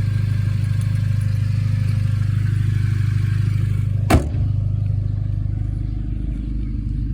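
Audi B8 A4 engine idling steadily, still warming up after a cold start, with a single sharp thump about four seconds in.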